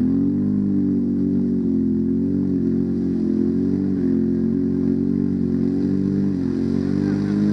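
Dirt bike engine running hard at high revs, its pitch held fairly steady with small rises and dips as the throttle is worked.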